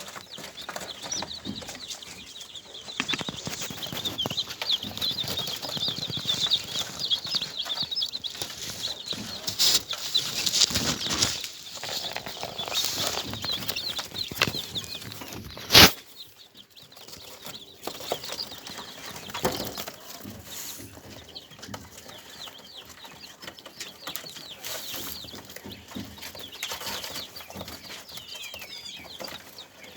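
Kept birds chirping rapidly and continuously, with wings fluttering and flapping. A single sharp knock comes about halfway through.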